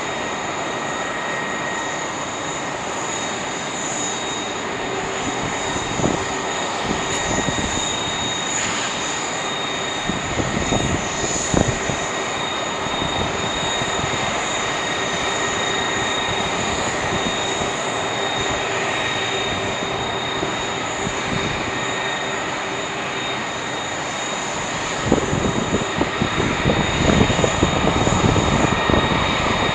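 Jet airliner engines running with a steady high whine over a wide rush of noise. About 25 seconds in, a rough, crackling rumble grows louder.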